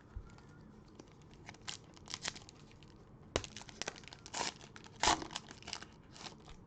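Cellophane wrapper of a 2020-21 Optic basketball cello pack being torn open and crinkled: an irregular run of sharp crackles, loudest around the middle and about five seconds in.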